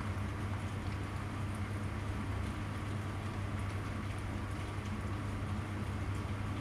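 Steady rain with a constant low hum underneath and faint scattered drop ticks.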